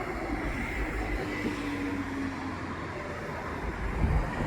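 Steady low rumble and hiss of distant vehicles outdoors, with a faint steady hum that comes and goes; the approaching freight's locomotives are not yet plainly heard.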